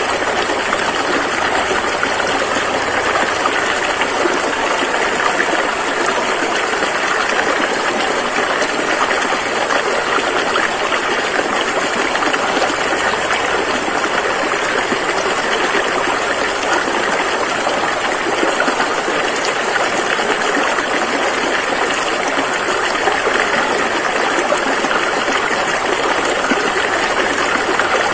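River water rushing and burbling over rocks in a steady, unbroken flow.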